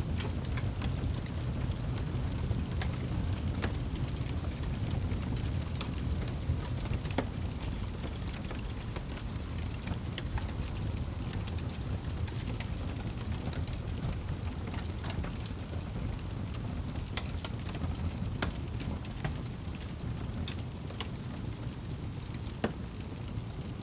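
Steady rain over a deep, even rumble, with a wood fire crackling in scattered sharp pops throughout.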